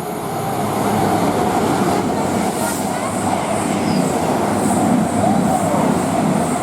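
Avanti West Coast Class 221 Voyager diesel multiple unit moving past on the main line, its engines and wheels making a steady rumble that swells about a second in.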